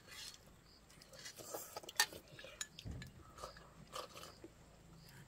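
Faint scattered clicks and light taps, irregular, with a sharper click about two seconds in.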